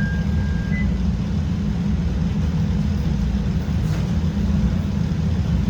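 CTA Red Line rapid-transit car rumbling along as the train pulls out, a steady low rumble of wheels and motors, with the last of the door-closing chime tones ending about a second in.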